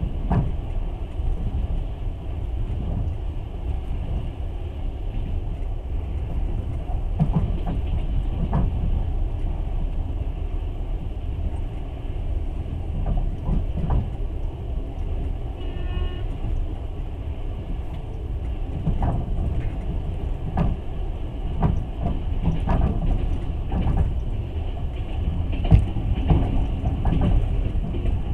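Passenger train running along the track, heard from inside the carriage: a steady low rumble of wheels on rails with irregular knocks and clicks. A short high tone sounds about halfway through.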